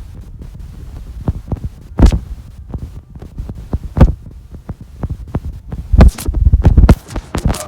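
A series of irregular low thumps and knocks, the sharpest about two, four and six seconds in, with a quick run of them just after six seconds.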